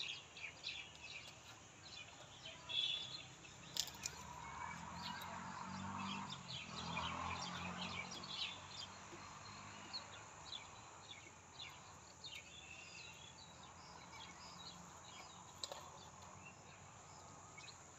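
Birds chirping over faint outdoor background noise, with a soft low swell a few seconds in and an occasional light knock.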